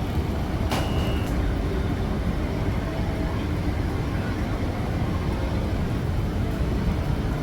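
BTS Skytrain train running with a steady low rumble. A sharp click and a short high tone come about a second in.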